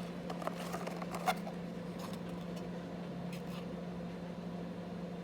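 A few faint light clicks and taps of a small plastic toy being handled, over a steady low electrical hum.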